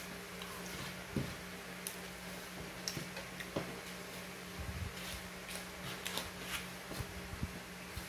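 Chewing on a rolled tortilla tornado snack: irregular soft clicks and mouth smacks over a steady low electrical hum.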